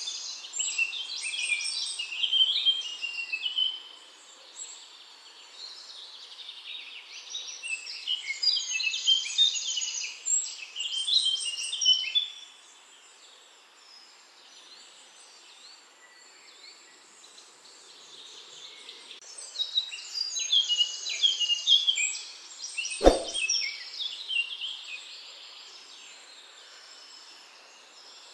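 Small birds singing in three bouts of rapid, high chirping notes, with quieter spells between. A single sharp knock comes during the last bout.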